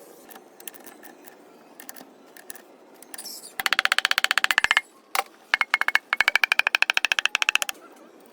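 A small machine running in two bursts, about a second and two seconds long, with a rapid, even clatter of about seventeen strokes a second. A faint whine rises slightly during the second burst. Scattered light clicks come before it.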